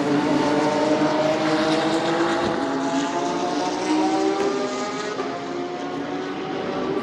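GT3 race car engines accelerating out of the pit lane, several cars at once, their pitch rising steadily.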